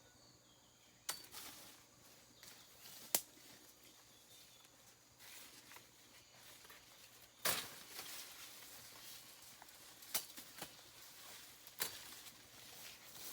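Rustling of forest undergrowth with about five sharp snaps spread through it, the loudest about halfway through, like someone moving through and handling plants and twigs.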